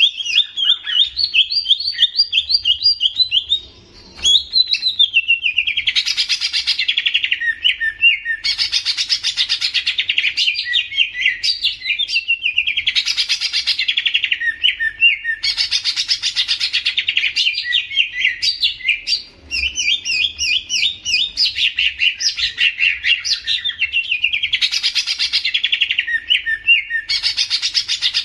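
Songbird singing a rapid, continuous chattering song, with a louder sweeping phrase recurring about every two to three seconds and two brief pauses.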